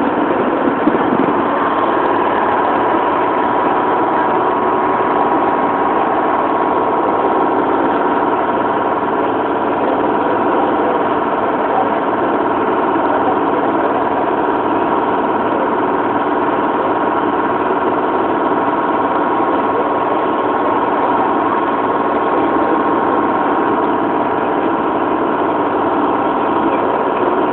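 Motor launch's engine running steadily while under way, an even, unchanging engine drone.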